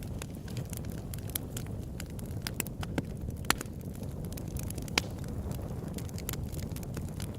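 Open-air wood campfire burning with irregular crackles and sharp pops over a steady low rumble of flames; the loudest pops come about three and a half and five seconds in.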